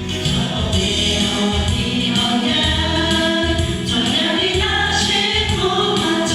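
Music with a group of voices singing together over instrumental accompaniment, the sung notes held and changing pitch every second or so.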